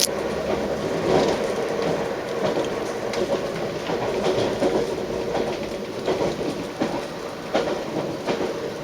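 Train running along the track: a steady rumble with scattered clicks and knocks from the wheels on the rails.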